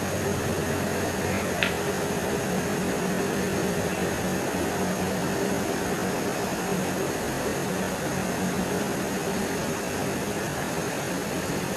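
Steady, even hiss with a faint low hum and a faint high whine underneath, broken once by a short high chirp about one and a half seconds in.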